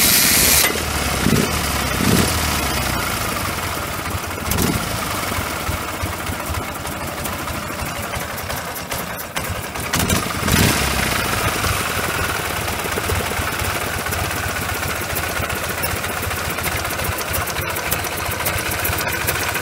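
Ural motorcycle's opposed-twin (boxer) engine, built from worn-out scrap parts, running without knocking, with a few brief rises in engine speed in the first half and some gear noise from the generator drive gear. A short rush of noise sounds at the very start.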